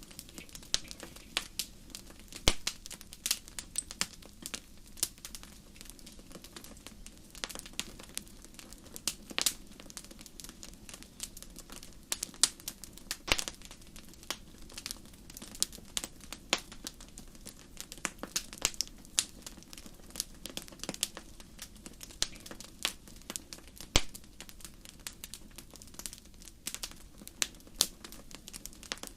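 Wood fire crackling in a fireplace: a steady low hiss with many irregular sharp snaps and pops, a few of them louder than the rest.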